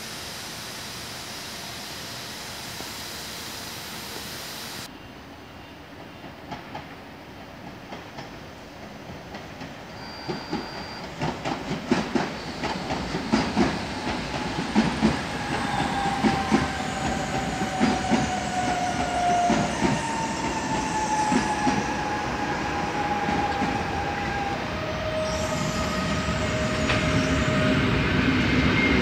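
A steady hiss for the first few seconds. Then a train rolls over rail joints and switches: a clatter of wheel clicks that grows louder and denser, with several long, slowly falling whines over it.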